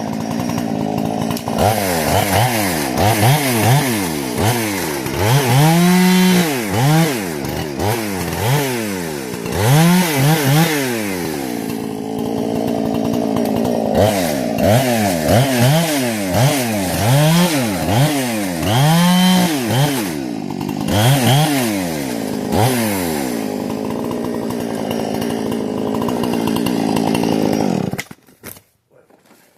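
Husqvarna 460 two-stroke chainsaw with a modified carburettor and muffler, revved up and down over and over, each rise and fall about a second long. It is running well, and its engine sound stops abruptly near the end.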